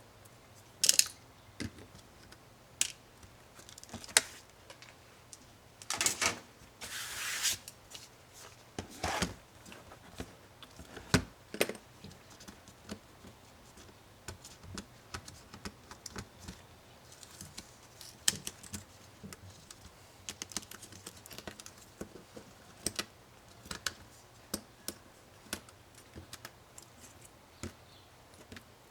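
Irregular small clicks, taps and a few short scrapes of plastic and metal laptop parts being handled and pried apart with tools during a Chromebook disassembly.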